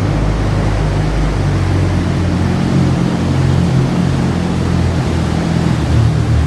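Troller 4x4's diesel engine running steadily at low revs.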